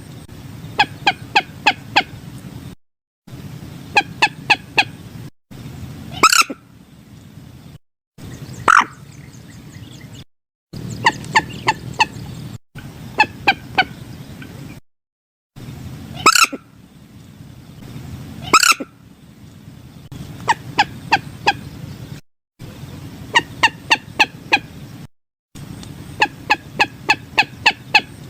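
Common moorhen calls played from a bird-lure recording: runs of rapid clucking notes, several to a burst, with four louder, longer single calls spread through. The track is spliced, with short dead-silent breaks between the pieces.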